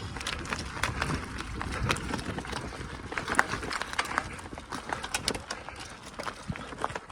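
Bicycle ridden over a rough forest track: tyres crunching and the bike rattling with many irregular sharp clicks and knocks over a low rumble.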